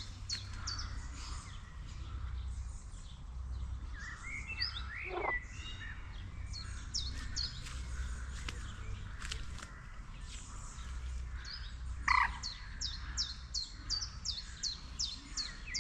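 Green frogs calling in a pond, a steady chorus with a few louder calls that slide up and down in pitch. Quick runs of high, sharp chirps from a bird sound over the chorus.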